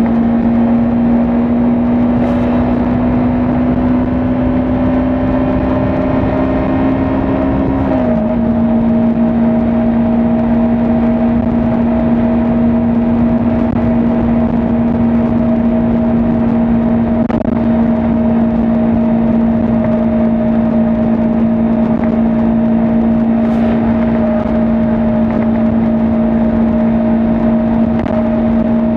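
Kawasaki Ninja 400's parallel-twin engine running at steady high revs at highway speed, over a constant rush of wind and road noise. Its pitch climbs slowly, drops quickly about eight seconds in, then holds steady.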